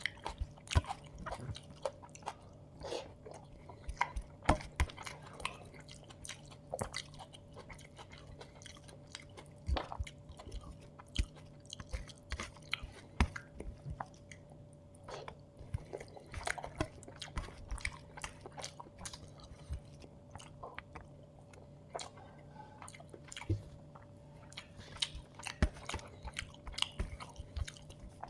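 Close-miked chewing, biting and wet mouth sounds of a person eating chicken biryani, with frequent irregular sharp clicks and smacks. A faint steady hum runs underneath.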